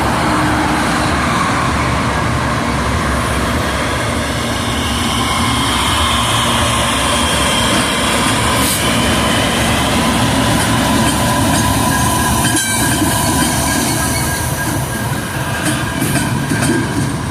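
A multi-unit set of EMD diesel-electric freight locomotives, SD60E and SD70M-2 among them, passing close by with a loud, steady engine rumble and the run of wheels on rail. Faint thin wheel squeal comes and goes.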